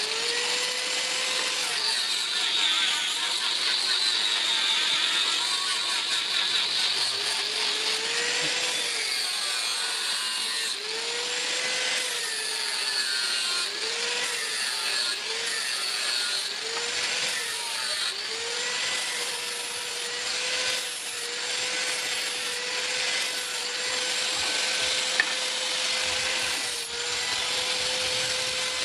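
Electric grinder running and grinding metal, with a continuous rasp. Its motor pitch sags and recovers again and again, as it is pressed on and eased off, then holds steady for the last ten seconds or so.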